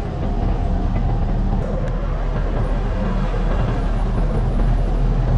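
A car engine running steadily at low revs, a constant low rumble with no revving.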